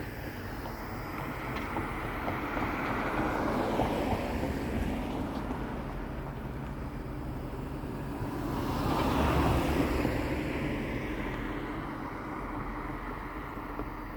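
Propeller aircraft droning as it passes, swelling twice and fading.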